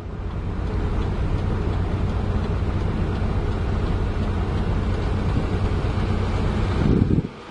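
Heavy diesel engine running steadily at idle; the sound drops away suddenly near the end.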